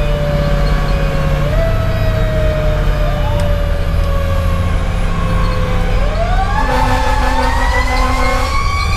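Fire engine running on a call: the low rumble of its diesel engine under a siren whose pitch jumps up in short blips and slowly sags between them, then winds steadily higher from about six seconds in.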